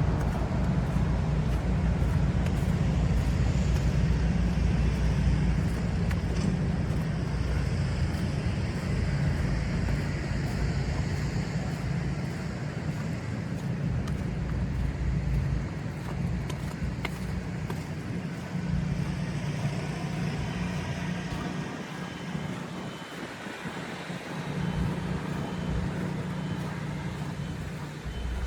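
City street traffic: motor vehicles running and passing with a heavy low rumble that eases off after the middle. A faint, evenly repeating high beep starts near the end.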